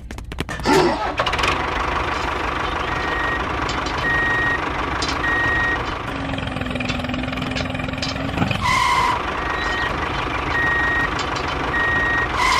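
Vehicle engine running steadily while a reversing alarm beeps about once a second, with a brief louder tone about two-thirds of the way in.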